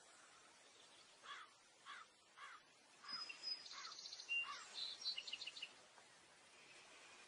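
Faint birdsong: a run of short calls about half a second apart, followed by higher chirps and quick trilled notes.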